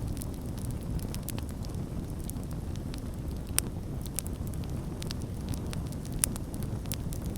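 Campfire burning: a steady low rumble of flames with irregular sharp crackles and pops, two louder pops about three and a half and six seconds in.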